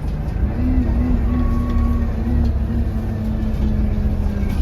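Interior of an Alexander Dennis Enviro200 single-decker diesel bus under way: the engine runs with a heavy low rumble, and a steady droning tone sets in about half a second in. A brief higher whine sounds about a second in.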